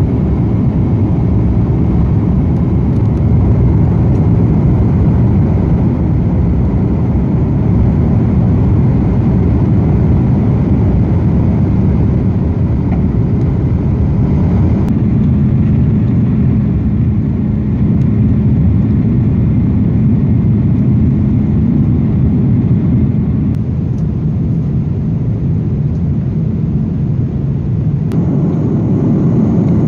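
Airbus A330-300 engine and airflow noise heard from inside the cabin: a loud, steady low rumble, changing abruptly twice, about halfway through and near the end.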